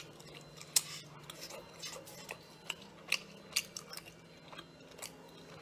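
Close-up mouth sounds of a person chewing sea snail meat: wet smacks and clicks at irregular intervals.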